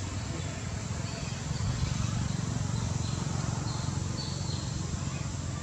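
Outdoor background noise: a steady low rumble with a few faint, short, high-pitched bird chirps scattered through the middle.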